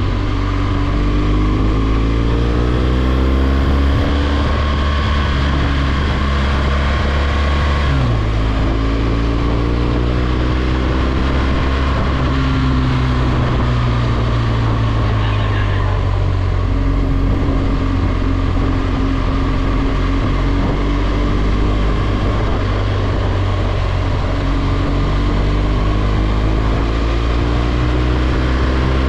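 BMW R1200GS boxer-twin engine pulling the motorcycle along at road speed, heard from the rider's position. The engine note rises and falls with the throttle, with an abrupt drop in pitch about eight seconds in.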